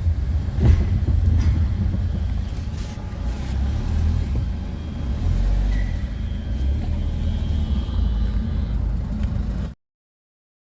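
A steady low rumble with a few faint clicks, cutting off suddenly near the end.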